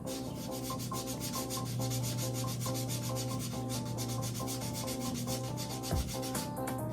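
An engine part being sanded or abraded to clean off residue: a fast, regular rasping over a steady low hum, with a brief pause near the end.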